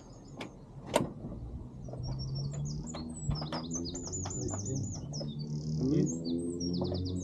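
Small birds singing and chirping with quick repeated trills, with a sharp click about a second in.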